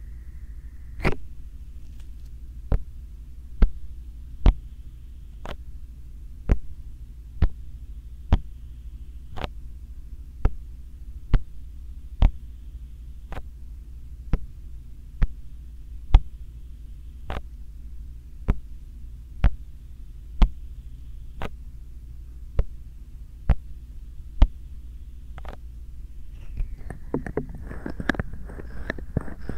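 Bare hands tapping a binaural microphone slowly and evenly, about once a second, over a steady low hum. Near the end the taps give way to hands rubbing against the microphone.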